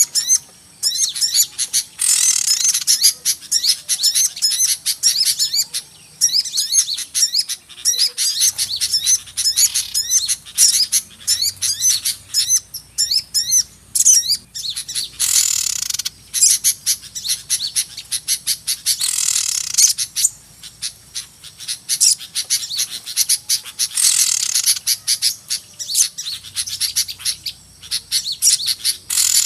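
A noisy flock of small songbirds chirping and twittering in rapid, overlapping high calls, with a few harsher rasping calls mixed in: a lure recording used to draw small birds in for trapping.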